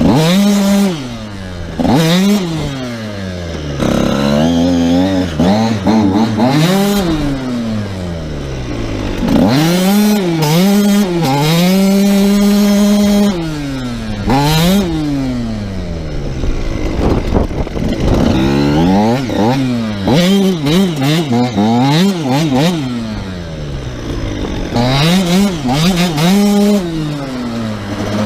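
KTM SX85 two-stroke motocross engine revving up and down over and over as the bike is ridden, its pitch climbing and falling with throttle and gear changes. It holds at high revs for a few seconds near the middle, and the throttle is blipped in short choppy bursts later on.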